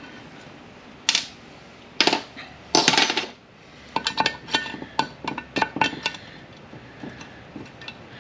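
Steel parts of a manual-transmission shift tower and hand tools clinking and knocking as the tower is worked apart by hand: a few separate knocks in the first three seconds, then a quick run of ringing metallic clicks from about four to six seconds in.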